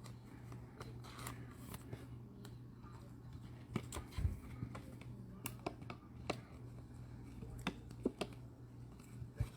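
Trading cards being handled: scattered faint ticks, taps and rustles of cards and holders being moved and set down, over a steady low hum.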